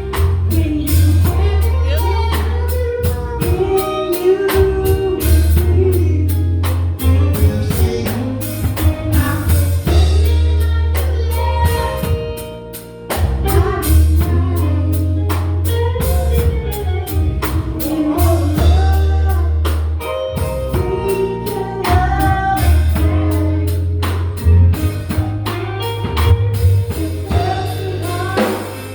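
Gospel band playing with singing: drum kit, keyboard, bass and guitar under a sung melody, a steady beat throughout. The music thins briefly about halfway through before picking up again.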